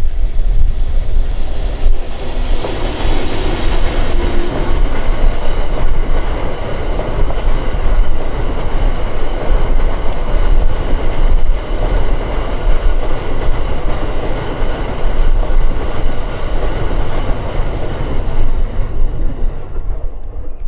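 Train running past at close range, its wheels rumbling on the rails, with a thin high wheel squeal about two to five seconds in.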